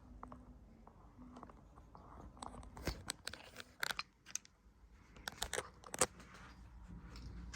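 Irregular sharp clicks and crackles over a faint low hum, thickest and loudest from about three to six seconds in.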